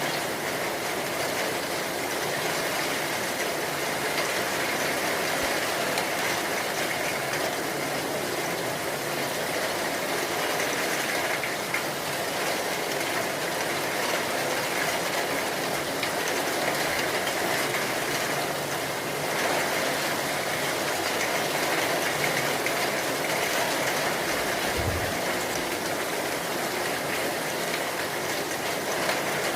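Steady rain making a dense, even hiss, with one brief low thump near the end.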